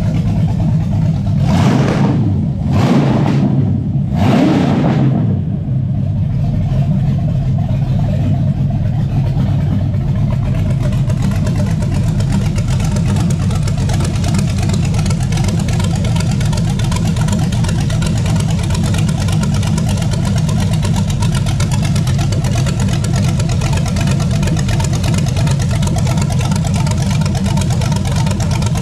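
Chevrolet small-block 350 V8 (5.7 L Vortec) on an engine run stand, running through headers on its first run: three quick throttle blips in the first five seconds, then settling into a steady idle.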